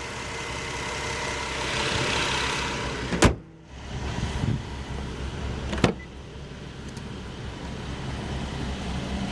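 Two sharp bangs about two and a half seconds apart, the first the louder, over the steady low hum of an idling car engine: the car's hood being shut, then its door being opened.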